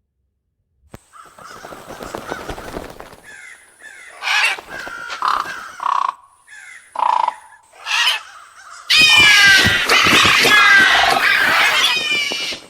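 Crows cawing: a few separate caws at first, then many crows cawing loudly together for about three seconds near the end.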